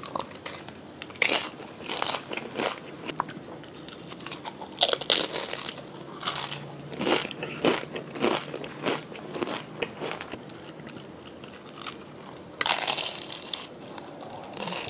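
A person biting and chewing crisp fried taco shell pieces, picked up close by a clip-on microphone: irregular crunches and crackles, with a louder run of crunching about three-quarters of the way through.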